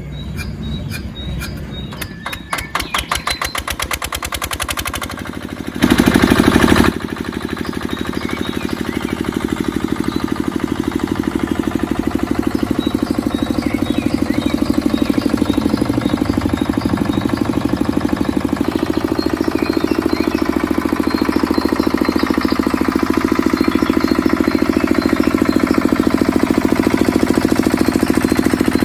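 Mini diesel engine starting: a fast run of knocks that speeds up over the first few seconds, a loud burst about six seconds in, then the engine running steadily with a fast, even beat.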